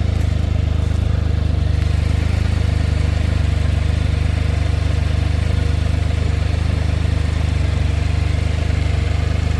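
Can-Am Spyder F3's Rotax three-cylinder engine idling steadily.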